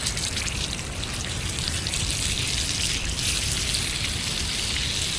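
A thick steak sizzling in hot salted oil in a frying pan: a steady frying hiss that grows a little stronger in the second half.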